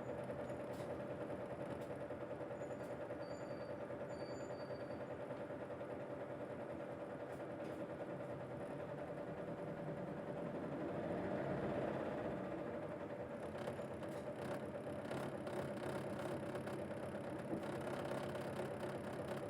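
Early Odakyu Bus 9000-series city bus running, heard from inside the cabin: a steady engine and drivetrain hum that grows louder for a moment about halfway through, with light rattles and clicks in the later part.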